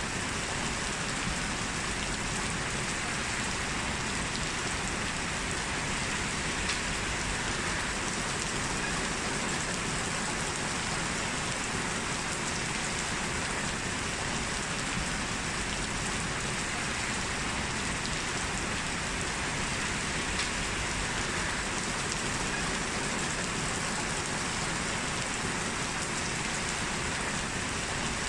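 Heavy rain falling steadily on a street, a continuous even hiss of rain with a faint drop tick here and there.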